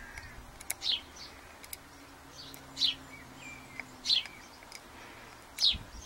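A songbird chirping repeatedly: short, falling high notes every second or two. A few faint light clicks, fitting steel tweezers handling small brass lock pins, sit under the chirps.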